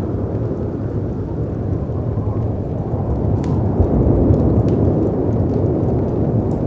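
Storm ambience: a low, steady rush of wind and breaking sea waves that swells to its loudest about four seconds in, with faint, scattered crackles from a wood fire.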